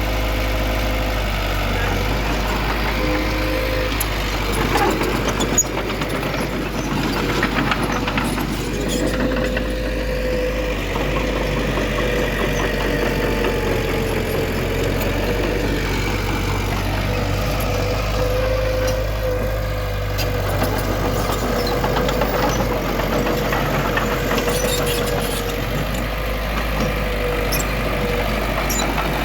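Heavy diesel earthmoving machinery running steadily, with a wavering whine over the engine hum and a few scattered clanks.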